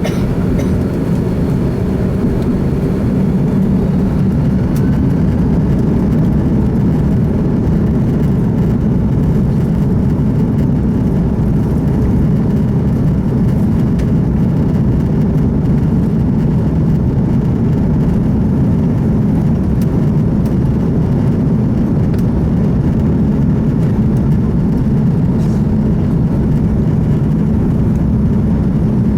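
Airbus A330 jet engine and airflow noise heard inside the passenger cabin during takeoff: a loud, steady low rumble that builds slightly in the first few seconds and then holds.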